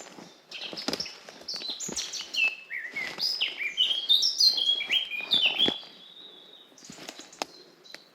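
A songbird sings a fast, varied song of short downward-sliding whistled notes for about five seconds, then stops. Footsteps crunch along a forest path throughout.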